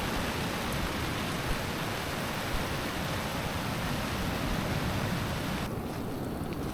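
Heavy rain falling in a steady, dense hiss. About five and a half seconds in, the hiss cuts off abruptly, leaving a lower rumble.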